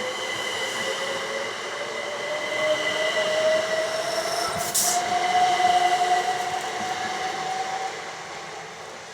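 Class 387 electric multiple unit pulling away, its traction motors whining in a tone that climbs steadily in pitch as it gathers speed, then fading near the end. A short hiss comes about five seconds in.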